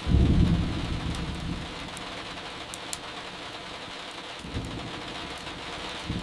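Steady rain with a loud rumble of thunder right at the start that fades over about a second and a half, then a softer rumble near the end. A few sharp pops from crackling firewood sound over the rain.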